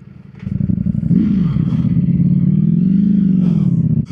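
Naked superbike's engine picking up sharply about half a second in and pulling hard, its pitch rising, dipping back and rising again before falling near the end.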